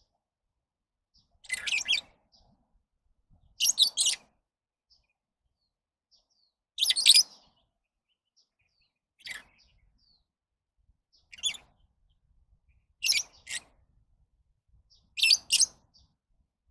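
Lovebirds giving seven short bursts of high-pitched chirps, about two seconds apart.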